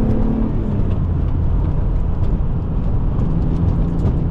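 BMW E36 M3 straight-six with a Dinan intake and Rogue Engineering exhaust, heard from inside the cabin. The engine pulls at steady high revs, drops off about half a second in to a low rumble with road noise, then settles back onto a steady pull near the end.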